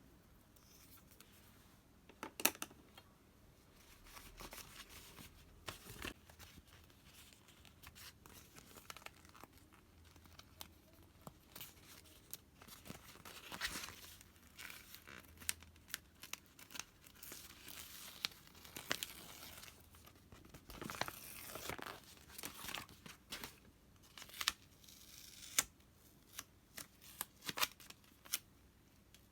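Paper or plastic being torn and peeled in a few longer rasps, with scattered sharp clicks and crinkles from small pieces being handled.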